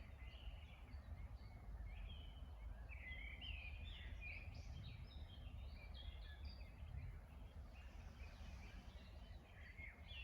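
Faint chorus of small songbirds singing, with quick overlapping chirps and warbles that are busiest a few seconds in, over a low steady rumble.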